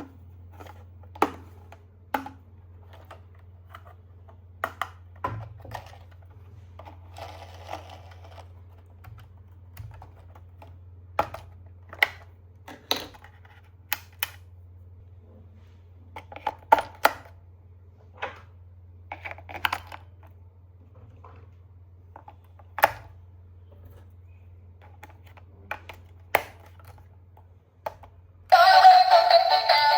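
Scattered sharp clicks and taps of toys and packaging being handled, over a steady low hum. Music starts near the end.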